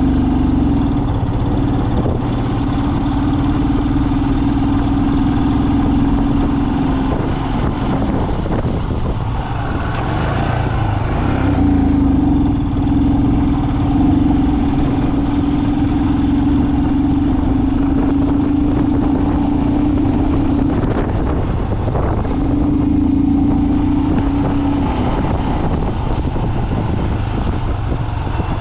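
A vehicle's engine and road noise while driving. A steady engine drone falls away twice, about seven and twenty-one seconds in, and then returns.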